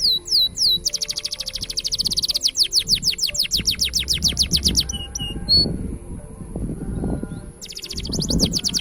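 Green canary singing in fast, rolling trills of quick down-sweeping notes. One long trill runs for a few seconds and breaks off into a couple of single notes, then a new trill starts near the end. A low rumble runs underneath.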